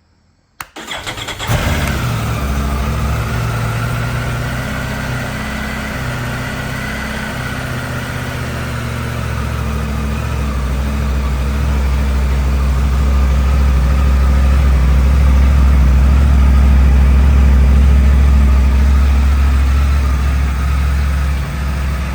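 Triumph Tiger 900 GT Pro's 888 cc three-cylinder engine cranked on the starter, catching after about a second, then idling steadily, its sound swelling somewhat in the second half.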